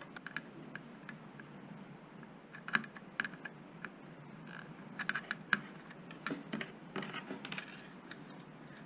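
Irregular light clicks and taps of small tools and parts handled on a workbench during circuit board repair, with a few sharper knocks in the middle.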